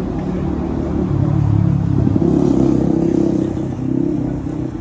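A motor vehicle engine running close by, its pitch stepping up as it accelerates, loudest in the middle and easing off near the end.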